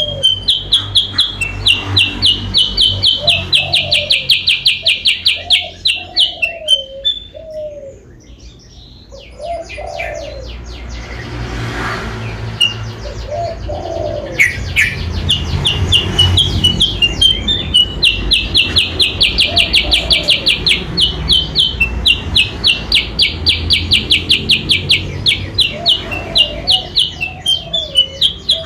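Kutilang sutra songbird calling in long, rapid, high-pitched chattering runs of repeated notes, with a break of a few seconds partway through. A lower, curved call repeats every second or two beneath it.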